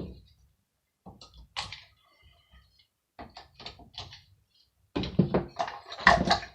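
Metal parts of a hand air dryer being handled during dismantling: scattered light knocks and clicks, then a louder run of clattering knocks near the end.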